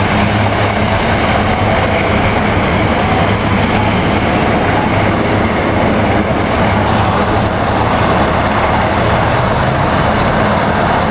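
Steady rumble of a moving vehicle with a low hum underneath.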